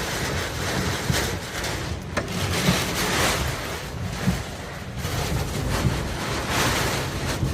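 Strong storm wind rushing and buffeting the microphone, with rumbling gusts rising and falling.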